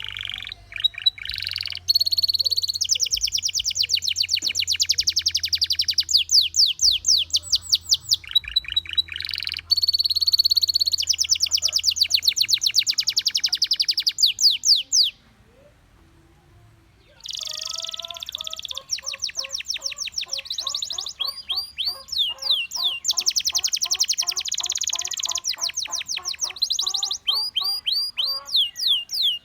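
Gloster canary singing long runs of rapid trills and rolls, fast repeated high notes that change pattern every few seconds. The song stops for about two seconds midway, then starts again.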